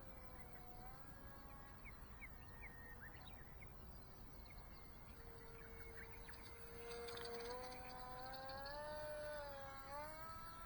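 Small brushless electric motor and 3-inch propeller of a sub-100 g RC plane whining in flight. The pitch glides down early on, holds steady for a couple of seconds, then rises and wavers as the throttle or the plane's distance changes, getting a little louder about two-thirds of the way in.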